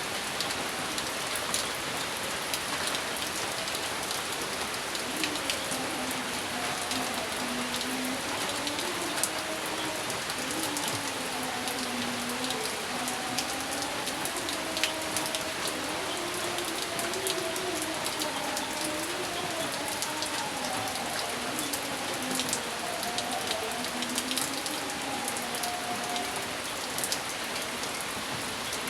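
Steady rain falling, a continuous hiss with many separate drops ticking through it. A faint wavering pitched sound runs underneath through most of the middle.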